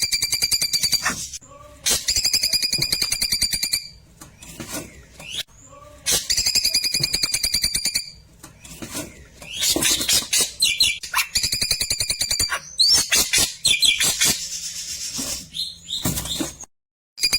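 Klewer songbird singing: fast, even trilled bursts of about two seconds each, repeated several times, with shorter chirps and whistled notes in between.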